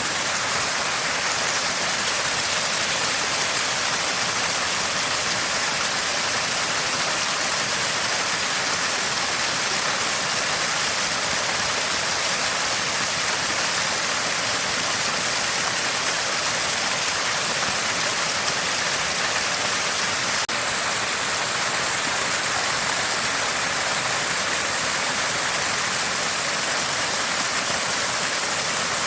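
Water spouting from a small spring, a constant unbroken splashing rush.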